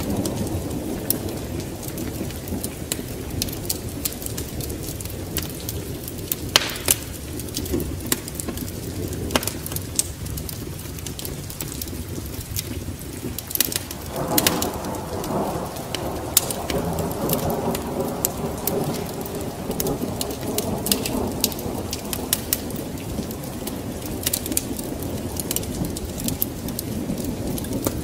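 Steady rain, with a long rumble of thunder swelling up about halfway through, over frequent sharp crackles of a wood fire.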